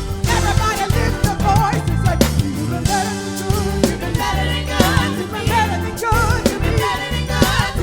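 Live gospel worship band playing, with drums, bass and keys, and wordless vocal runs and ad-libs over it.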